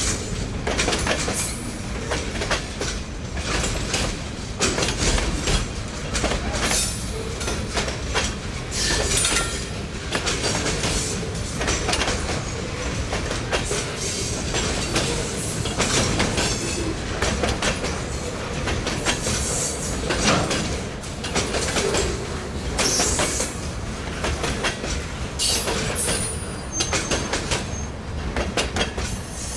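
Railroad cars rolling past at close range: a steady rumble with continuous clickety-clack of wheels over the rails and a few brief, high wheel squeals.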